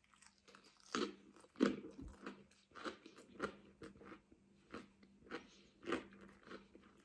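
Crunchy, slightly burnt tomato garlic bread being bitten and chewed close to the microphone: a run of short, crisp crunches, about two a second.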